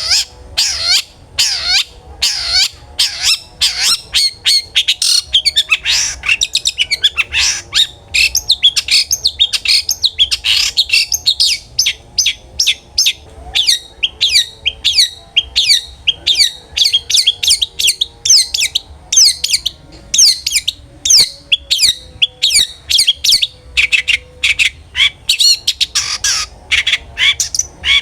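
Long-tailed shrike (cendet) singing without a break: a fast, loud string of short, sharp, sweeping chattering notes, several a second.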